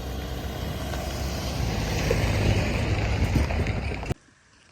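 Steady road and wind noise of a vehicle driving, with a deep rumble underneath; it cuts off suddenly about four seconds in.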